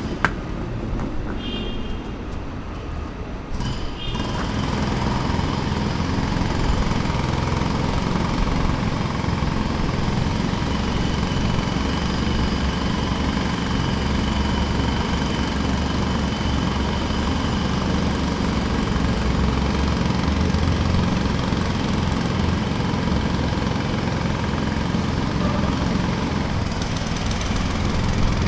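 Jackhammer running continuously: a steady, rapid mechanical pounding with a heavy low rumble, getting louder about four seconds in.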